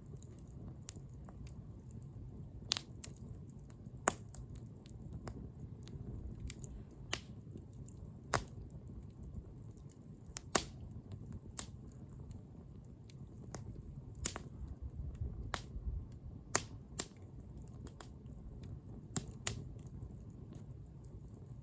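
Wood fire burning, with sharp irregular crackles and pops, about a dozen loud ones and many fainter, over a low steady rumble.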